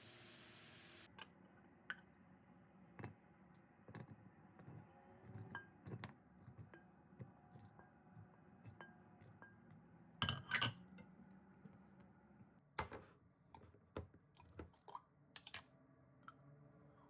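Kitchen handling sounds: scattered light clinks and knocks of dishes and utensils, with a louder clatter about ten seconds in. A steady hiss stops about a second in.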